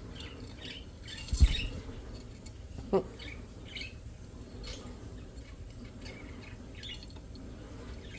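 Cockatiel making soft scattered chirps, with one short sharp call gliding downward about three seconds in. A loud thump about a second and a half in.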